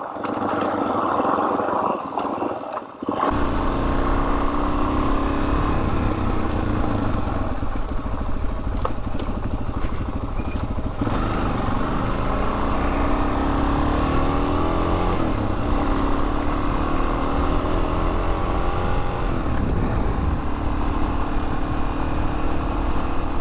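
Suzuki DR-Z400 dual-sport's single-cylinder four-stroke engine running while riding, its revs rising and falling. The low engine note comes in strongly about three seconds in.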